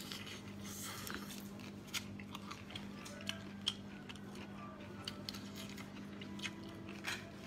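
Close-miked eating sounds of a man biting and chewing a prawn: irregular soft mouth clicks and small crunches, over a steady hum.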